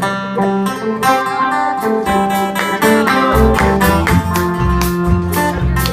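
Live band playing the instrumental intro of a country song, led by picked and strummed acoustic guitar; deep low notes join about three seconds in.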